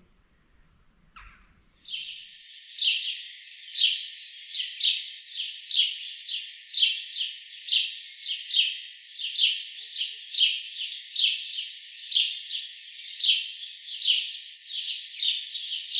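A bird chirping over and over, starting about two seconds in, with a loud chirp roughly once a second and softer ones in between.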